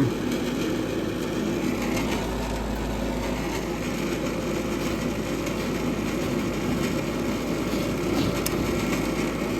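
Gas furnace draft inducer motor running with a steady rough noise, joined by a low hum from about two seconds in. It is the sound of a failing inducer that sounds about to come apart and needs replacing.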